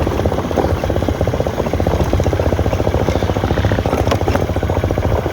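Motorcycle engine running steadily, its exhaust giving a fast, even pulsing note.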